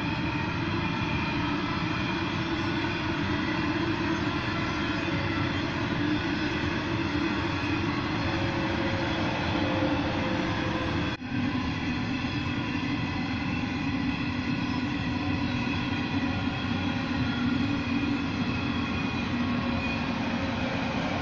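A long rake of coal hopper wagons rolling past with steady wheel-on-rail noise and several faint, high ringing tones held over it. The sound drops out for an instant about eleven seconds in.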